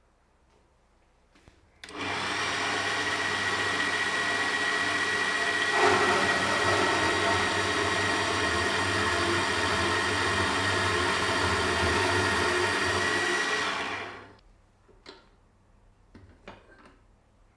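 An electric power tool's motor runs steadily for about twelve seconds with a high whine, then winds down quickly; a few light clicks of handling come after it.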